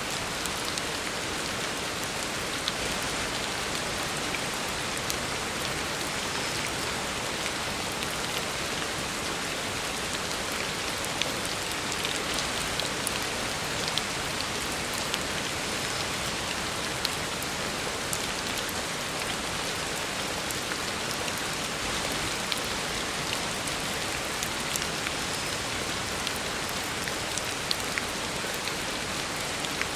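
Heavy rain falling steadily on a road, a dense even hiss with scattered sharper drop splashes.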